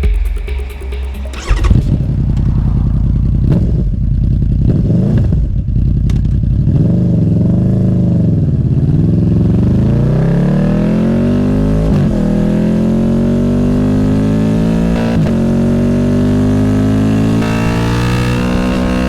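Honda VFR800F's V4 VTEC engine through an SC Project Conic exhaust, following a brief tail of intro music. The revs rise and fall a few times, then climb steadily as the bike accelerates, with two short breaks in the second half.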